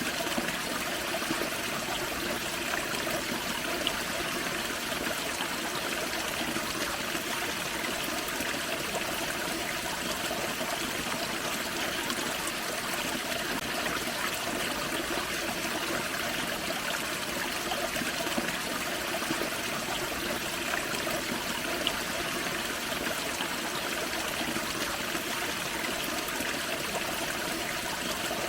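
Small woodland waterfall on a creek, water splashing and trickling over rocks in a steady, even rush.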